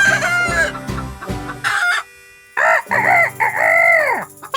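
Rooster crowing and hens clucking over light background music. A brief pause about two seconds in is followed by another loud, drawn-out call with several rising-and-falling notes.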